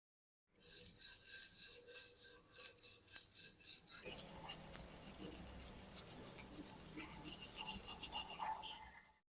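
Hand abrasive rubbing on a rusty metal part: rhythmic rasping strokes, about three a second, that turn faster and softer about four seconds in.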